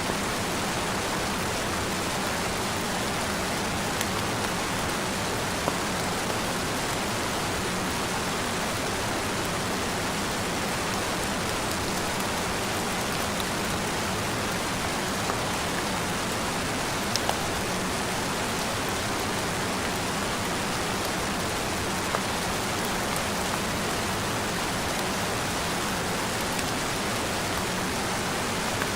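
Steady rain: an even hiss of falling rain with a few sharper drop ticks here and there.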